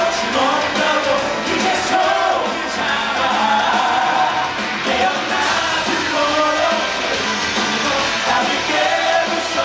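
Musical-theatre cast singing a rock number live over band accompaniment, with some shouted, yell-like singing.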